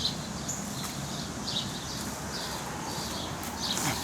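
Small birds chirping on and off in short high notes over a steady outdoor background noise.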